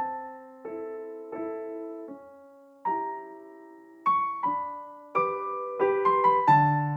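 Background piano music: single struck notes and chords that ring and fade, one every half second or so, growing busier in the second half with a low bass note near the end.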